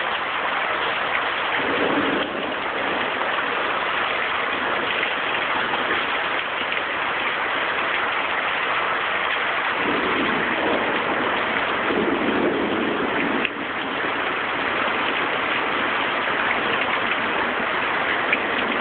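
Summer storm rain pouring down in a steady hiss. A deeper rushing swells in briefly about two seconds in, then again for a few seconds past the middle.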